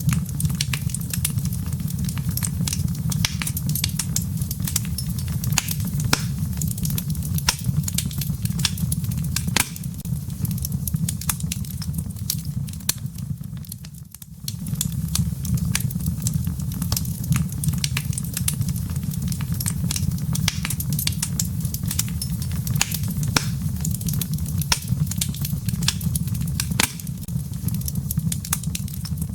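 Wood logs burning in a fireplace: a steady low rumble of flames with frequent sharp crackles and pops from the wood. The sound drops briefly about halfway through, then resumes.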